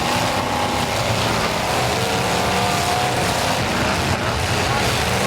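Several demolition derby cars' engines revving at once, their pitch wavering up and down over a steady loud din.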